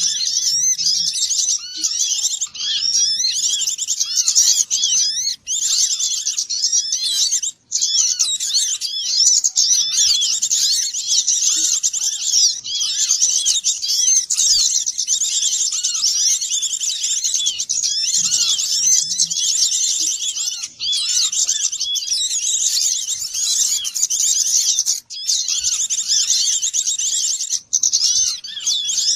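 Dense chorus of many small songbirds chirping and twittering at once, high and busy, with a few sudden brief dropouts where the track cuts. It is a bird-trapping lure recording of a noisy small-bird flock.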